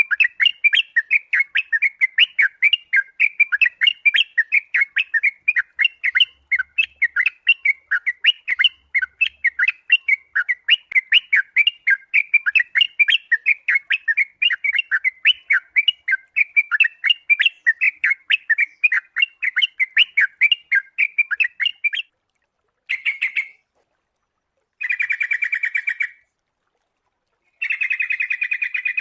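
Sooty-headed bulbul (kutilang) singing a fast, unbroken run of short chirps for about twenty-two seconds. The song then cuts off abruptly, and three shorter bursts of chirping follow, separated by dead silence.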